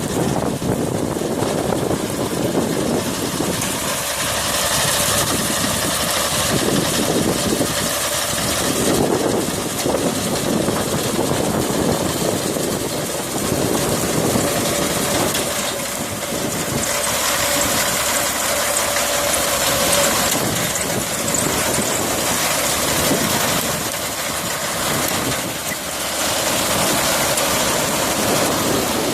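Tractor engine running steadily while driving a front-mounted reaper binder off its PTO, a continuous loud mechanical din with small swells in level.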